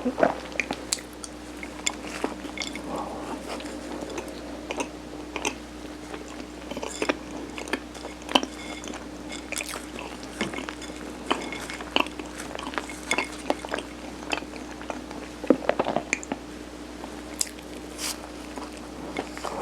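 Close-miked chewing and biting of mung bean-coated steamed rice cake, with frequent short wet mouth clicks and smacks.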